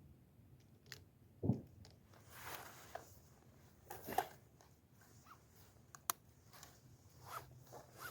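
Faint handling noises after shooting: a soft thump about a second and a half in, a few rustles, and a sharp click near the middle.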